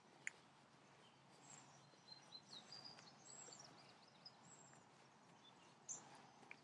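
Near silence outdoors, with faint, brief bird chirps and whistles, most of them about two to four seconds in.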